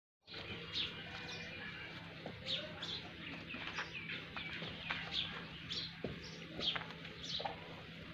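Birds chirping over and over in short, quick calls, with a steady low hum underneath.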